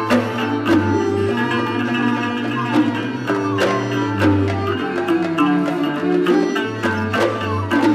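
Instrumental passage of Bahraini sawt music: plucked and bowed string melody over a steady hand-drum beat.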